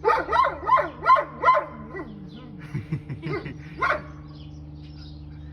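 Wolf giving a quick run of about five yipping barks, then a few weaker, lower calls and one more yip near the end.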